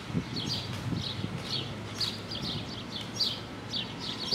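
Birds chirping: a steady series of short, high chirps, several a second, each dropping slightly in pitch.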